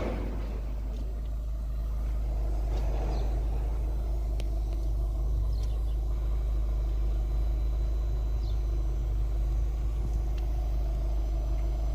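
Steady low rumble of a running vehicle, a little louder from about two seconds in, with a few faint clicks.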